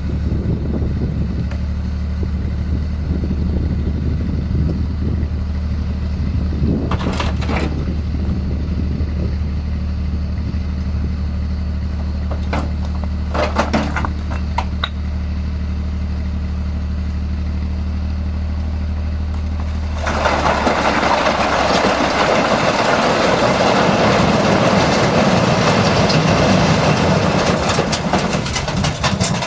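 A machine's engine running steadily at idle with a low hum, with a few knocks about a third of the way in and around the middle. Around two-thirds in, the hum gives way to a louder steady rushing noise.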